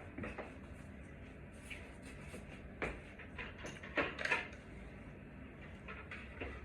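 Intermittent knocks, clicks and scrapes of parts or tools being handled, the sharpest about three and four seconds in, over a low steady hum.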